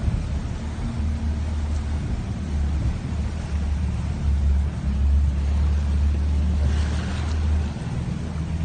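Vehicle engine running steadily under load, a deep low rumble, while driving through a flooded stream, with a constant rushing noise over it.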